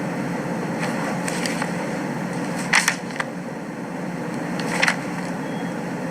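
Steady courtroom room tone: a low ventilation hum and hiss on the microphone feed, with two short hissing sounds, one about three seconds in and one about five seconds in.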